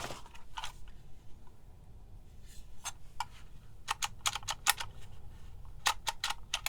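Handheld embossing label maker's character dial being turned, clicking through its detents to bring the space position into the print area. Sharp separate clicks, a few at first, then a quicker run of them in the second half.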